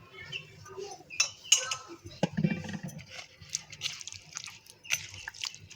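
Vinegar going into spiced raw chicken marinade in a bowl and being worked in by hand: faint, irregular wet squishes and small clicks.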